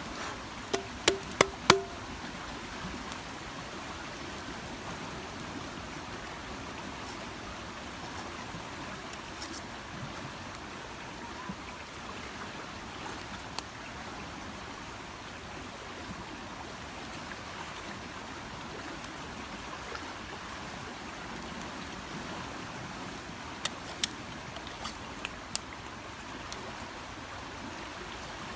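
Steady rush of the flooding river's water. A few sharp clicks and knocks stand out near the start and again near the end.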